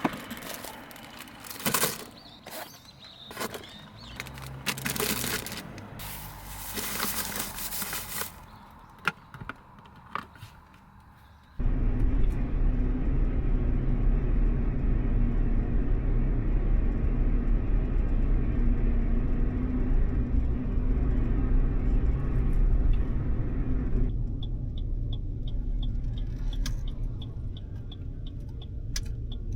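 Scattered clicks, rattles and rustling of close handling. Then an abrupt change to the steady low rumble of a car driving, heard from inside the cabin, with a run of light, even ticks near the end.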